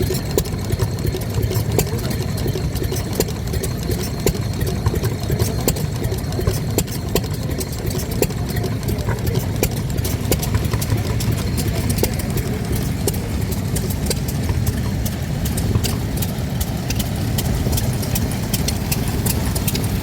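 Vintage stationary engines running at an engine show, a steady low drone with many sharp ticks and knocks from their valve gear and exhausts.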